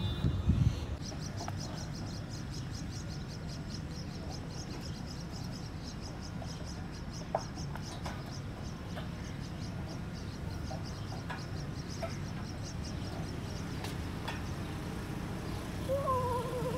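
Outdoor background sound with birds chirping: a rapid, even run of high chirps over the first half, then scattered single calls, over a steady low rumble.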